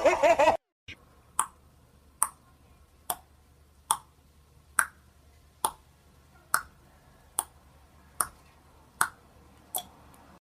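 A sharp click or snap repeating evenly, about once every second, some eleven times over a quiet background. Before it, music and laughter cut off about half a second in.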